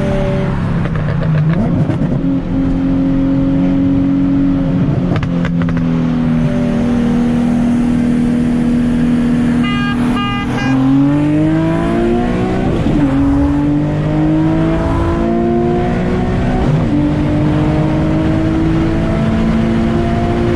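Nissan 370Z's V6 under hard acceleration during a pull. The engine note holds steady, then after a gear change about halfway it climbs in a long, slowly rising sweep. A short run of high beeps sounds around the middle.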